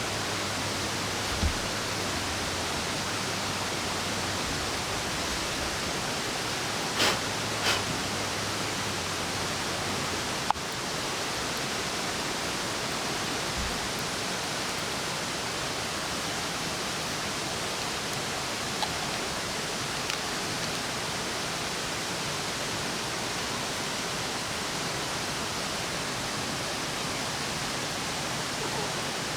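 A steady, even rushing noise outdoors, with a few short faint clicks and knocks.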